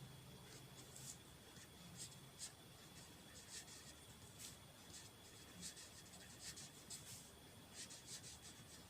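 Faint pen strokes of handwriting, irregular short scratches coming every fraction of a second, over a faint steady high whine.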